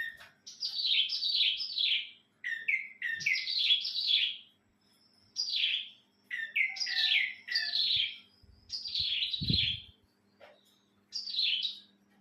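A pet cilang bird singing: about six short phrases of quick, chirpy notes that swoop downward, separated by brief pauses. A faint steady low hum lies underneath, and a short low thump comes near the end.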